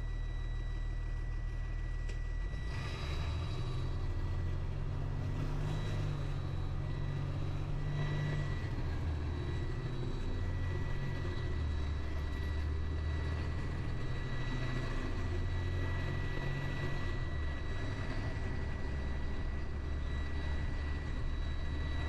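Truck engine running for about three seconds at a steady low hum, then pulling away. Its note shifts up and down several times as it drives on.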